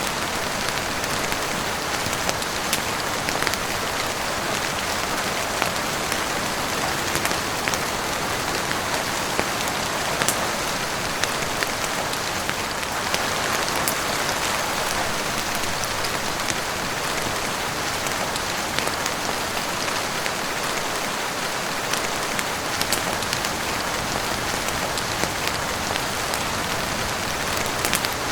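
Heavy rain falling steadily on a roof and windows, an even hiss with scattered sharp clicks through it.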